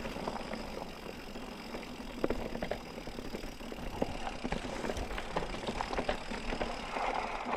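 Mountain bike rolling along a dirt singletrack trail: steady tyre and riding noise with scattered light clicks and rattles from the bike.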